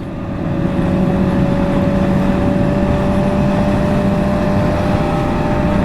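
Motorcycle engine running at a steady pitch under wind rush as the bike rides along, growing louder during the first second and then holding even.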